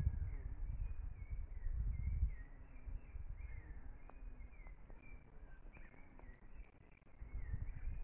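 Outdoor ambience of birds giving short repeated chirps throughout, with low wind rumble on the microphone swelling near the start and again near the end.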